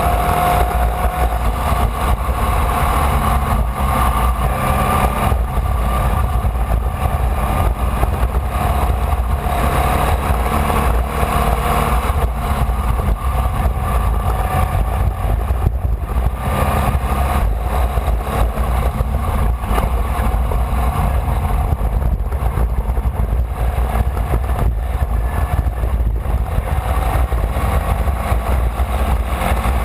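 Onboard sound of a Formula Vee's air-cooled Volkswagen flat-four racing engine running hard at speed, its pitch rising and falling a little as the revs change, over a constant heavy low rumble.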